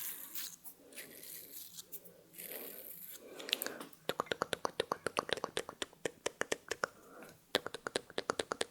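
Close-miked ASMR trigger sounds: soft rubbing or brushing swishes, then fast runs of crisp clicks, about eight a second, starting about four seconds in and again near the end.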